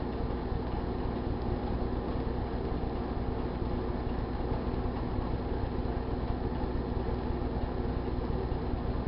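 GE Dual Wave microwave oven running with a steady hum while heating two duck sauce packets.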